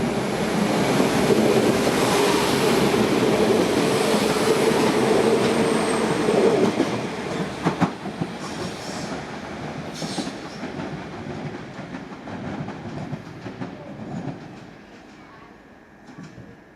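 Northern Class 195 diesel multiple unit pulling out of the station, its engines and wheels on the rails loud with a steady tone for the first several seconds, then fading away as it moves off.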